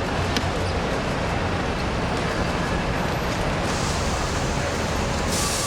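Steady road traffic noise from vehicles running along a busy curb, a low rumble under a hiss that grows brighter in two steps in the second half.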